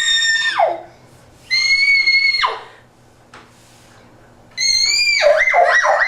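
Toy fire truck's siren: a high held tone that cuts out twice, then, after a pause, a fast up-and-down yelp that slides down in pitch near the end.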